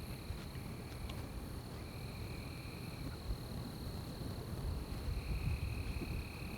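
Night forest ambience: insects, crickets among them, keeping up a steady high trill, with a second, lower-pitched caller chiming in for a second or so twice, over a constant low rumble.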